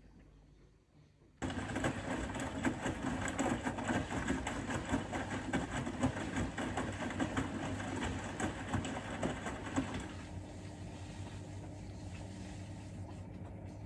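Bosch Serie 4 WAK20260TR washing machine in its wash cycle: after a short pause, the drum starts turning about a second in, with motor noise and the load and water sloshing. After about ten seconds it settles to a quieter, steady motor hum.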